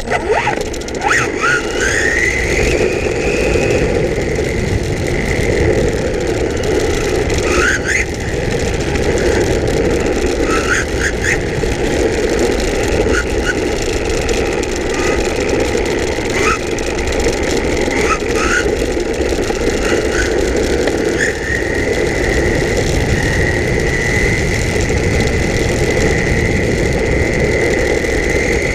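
Electric motor of an RC10L pan car whining, sweeping up in pitch with each burst of speed and holding a steady high whine on the long run near the end, over a constant rumbling noise.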